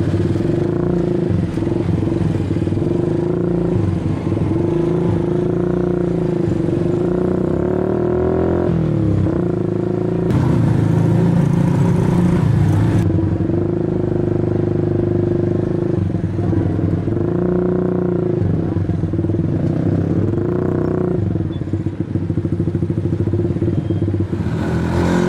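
Race-prepared Honda Super Cub 50 single-cylinder four-stroke engines with race exhausts running at low revs, the pitch shifting slightly every couple of seconds as the throttle changes.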